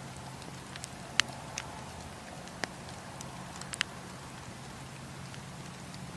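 Wood campfire crackling: a steady hiss under scattered sharp pops of burning wood, the loudest about a second in and a quick pair a little before four seconds.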